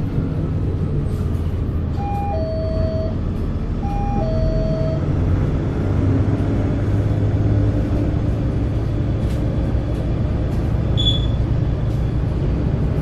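Zyle Daewoo NEW BS090 Euro 6 diesel bus engine running steadily, with a two-note stop-request call-buzzer chime sounding twice in the first five seconds. The engine note swells a little about six seconds in.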